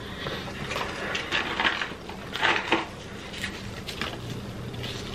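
Close-miked eating of crispy fried fast food: scattered crunches and small clicks of chewing and handling, the loudest about halfway through, over a faint steady hum.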